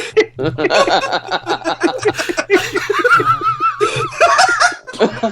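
Several men laughing hard together, with a long wavering high-pitched laugh about three seconds in.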